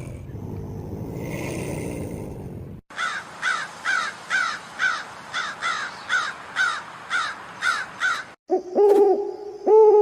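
A run of recorded animal calls: a low rough rumbling noise for the first few seconds, then a bird-like call repeated about thirteen times, a little over twice a second, each falling in pitch, then two hooting calls near the end.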